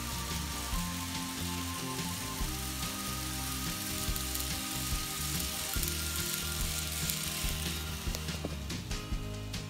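Model passenger train rolling along the track with a steady hiss of wheels on rails, fading away near the end as the train passes out of view. Background music plays underneath.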